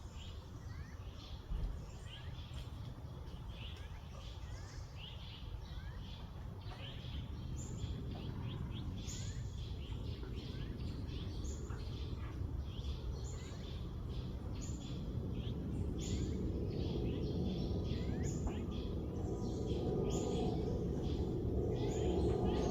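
Several birds chirping and calling in short, quick notes, many overlapping, with a steady low noise underneath that grows louder toward the end.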